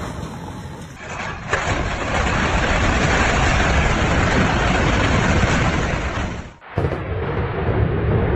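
Building demolition: a sharp crack about a second and a half in, then a loud, dense rumble of collapse. It cuts off suddenly past six seconds, and a similar rumble follows.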